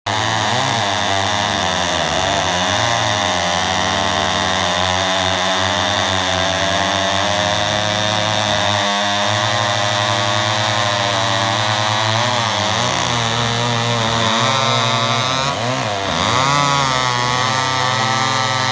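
Two vintage Homelite two-stroke chainsaws, a 1050 and an XP-1000, running together, their two engine notes wavering and beating against each other. About fifteen seconds in, the pitch dips and then one saw revs up briefly.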